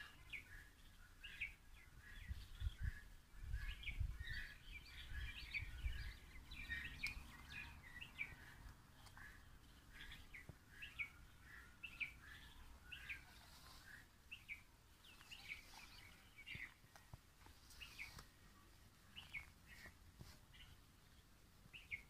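Birds chirping: many short, high calls in quick succession, thinning out over the second half. A low rumble of wind or handling noise on the microphone sits under the calls between about two and six seconds in.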